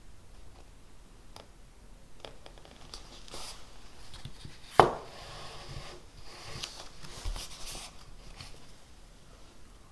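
Small desk sounds of someone studying: scattered light taps and stretches of scratchy rustling, with one sharp knock about five seconds in, the loudest sound.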